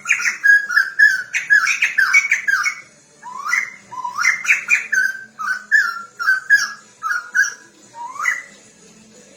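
Laughingthrush (poksay) song: loud slurred whistled notes that rise and fall, in two phrases, the second starting after a short pause about three seconds in.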